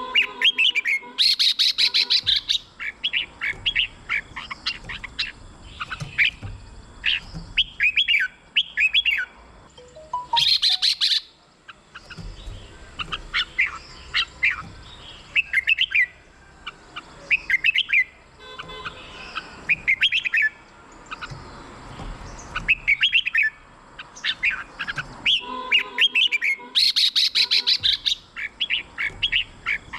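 Red-whiskered bulbul singing: short, quick whistled warbling phrases repeated again and again, broken three times by a brief harsh buzzy burst.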